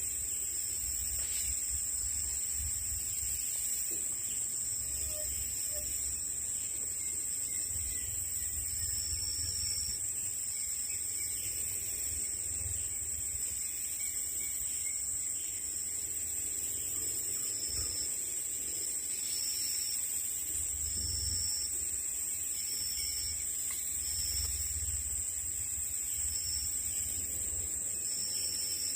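Forest insects (crickets or cicadas) keeping up a steady, high-pitched drone, with short high notes repeating irregularly in the second half.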